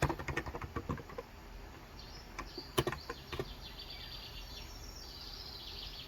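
Keystrokes on a Cox Endeavor 35g electro-capacitive keyboard for about the first second, then typing stops, with one sharp click near the middle. Small birds chirp in the background, in quick high runs that grow busier toward the end.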